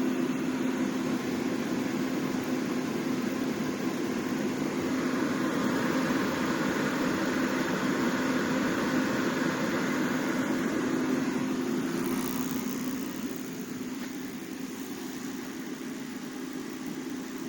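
Heat Star portable propane forced-air heater running on its low setting: a steady hum of burner and fan with a low tone through it, dropping slightly in level about three-quarters of the way through.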